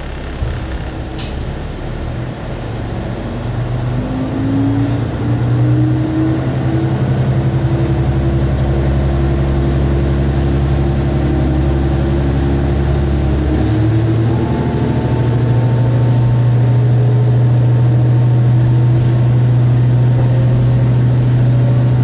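Diesel railcar engine heard from inside the single car, idling at first and then building as the car pulls away and speeds up. The engine note changes abruptly about two-thirds through, as the transmission shifts, then runs on louder and steady.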